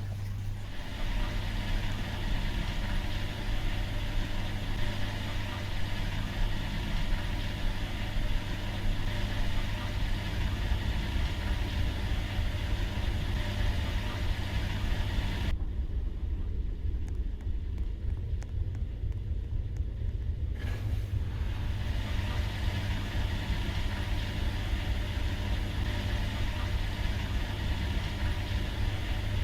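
Washing machine running, with a steady motor hum and rumble. Its higher sounds drop away for about five seconds midway.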